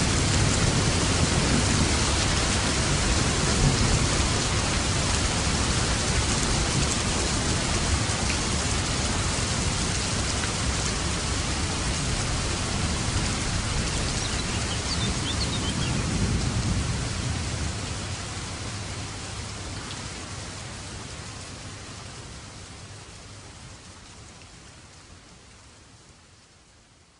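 Steady heavy rain with low rolls of thunder, a rumble near the start and another about halfway through. The storm sound then fades out gradually over the last ten seconds.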